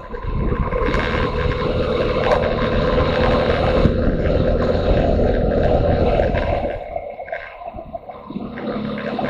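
Motorcycle engine running under way, with wind rushing over the microphone. It eases off for a moment about two-thirds of the way through, then picks up again.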